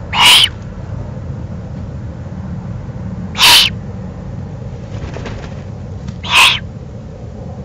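Eurasian eagle-owl giving harsh, rasping hiss-like calls: three short loud ones about three seconds apart, over a steady low background rumble.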